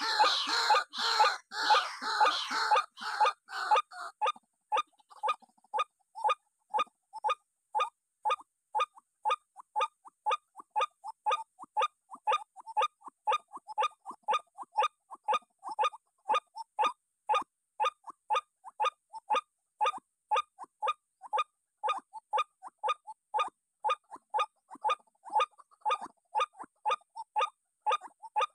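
White-breasted waterhen calls: short clipped 'kwak' notes repeated very evenly, about two or three a second. They are louder and crowded together for the first few seconds, then settle into a steady run.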